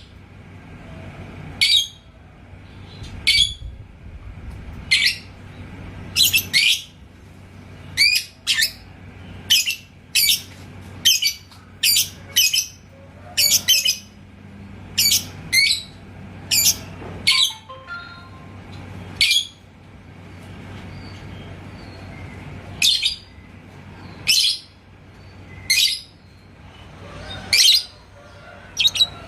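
Lovebird giving short, sharp, high-pitched chirps, roughly one a second, with a pause of a few seconds past the middle.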